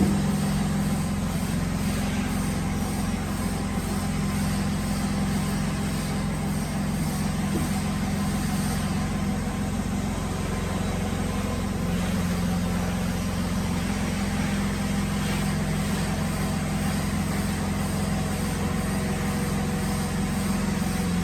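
Electric motor of a woodworking machine running steadily with an even low hum.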